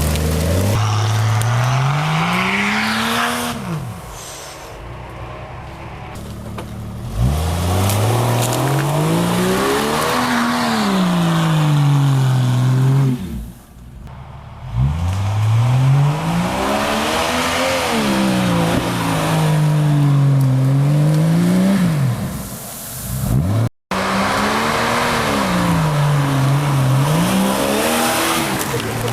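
Off-road 4x4's engine revving hard again and again in mud, its pitch rising and falling about five times, with a spray of mud and wheel noise over it. The sound cuts out for an instant about three-quarters of the way through.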